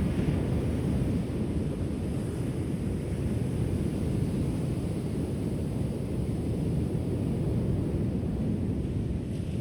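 Ocean surf: a steady, low roar of waves, with no single wave breaking out from it.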